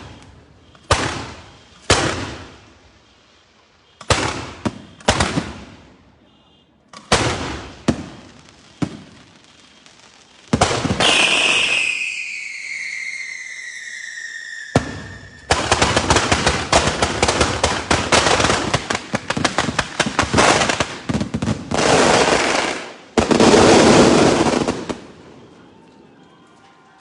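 Close-range fireworks fired from a flatbed cart, going off in a string of short crackling bursts, each dying away. About eleven seconds in, a whistle falls slowly in pitch, and then a long dense barrage of crackling bangs runs for about ten seconds before dying down near the end.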